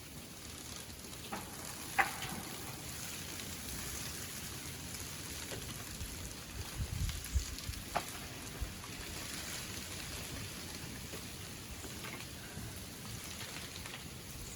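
Steady hiss of freezing rain falling and dripping in an ice storm, with a few sharp clicks, the loudest about two seconds in and another near eight seconds, and low thuds around seven seconds in.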